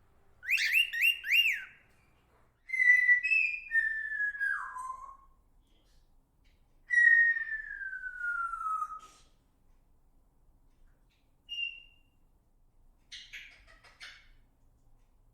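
A bird whistling clear notes: three quick rising-and-falling notes, then a call that steps down in pitch, then one long, slowly falling whistle, followed by a short high note and a brief scratchy chatter.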